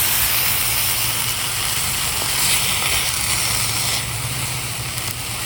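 Lamb's quarters greens with garlic and onion sizzling steadily in a cast iron pan over a campfire, a continuous hiss that eases slightly near the end.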